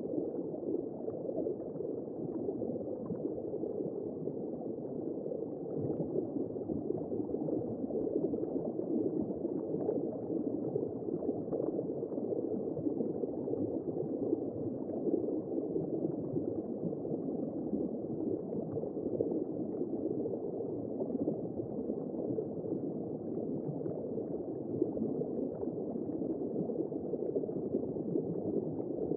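Womb-sound white noise: a steady, muffled whooshing noise with a liquid, gurgling quality and no high tones.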